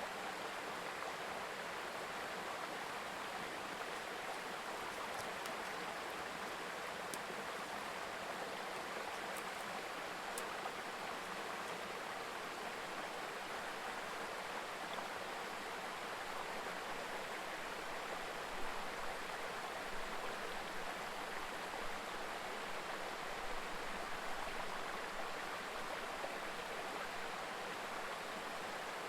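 Mountain stream babbling over rocks: a steady, even rush of flowing water, with a few soft low bumps past the middle.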